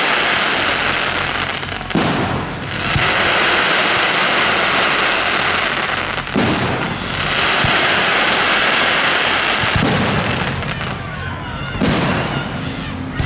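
Fireworks display: a continuous dense crackle, with four sharp bursts about two, six, ten and twelve seconds in.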